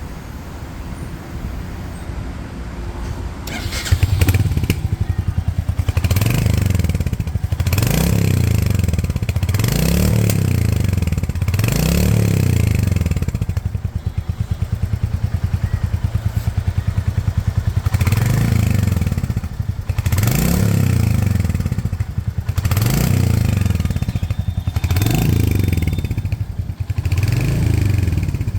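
Royal Enfield Hunter 350's 349 cc single-cylinder engine through its stock exhaust, getting much louder about four seconds in. It is then revved in short blips about every two seconds, with a steady idle stretch in the middle.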